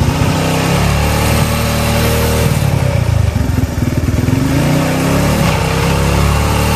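TVS Apache RTR 180's single-cylinder four-stroke engine running with its speed rising and falling. The valve clearance has just been set and no tappet clatter is heard; the carburettor is not yet tuned.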